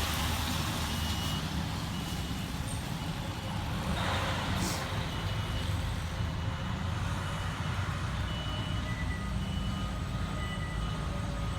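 Pierce Enforcer fire engine's diesel running steadily, with a backup alarm beeping about once a second as the apparatus reverses.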